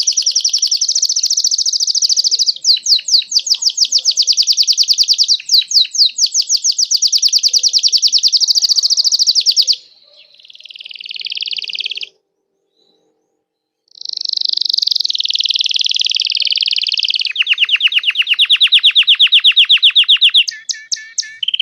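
Red-factor domestic canary singing a long song of rapid, high trills. It breaks off for about two seconds near the middle, then goes on with further trills, including a lower, slower rolled trill near the end.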